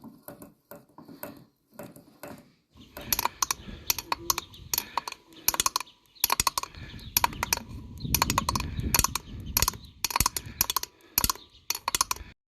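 Metal tools and engine parts clicking and clinking as they are handled, in irregular bursts, with a denser rattling stretch about two thirds of the way through.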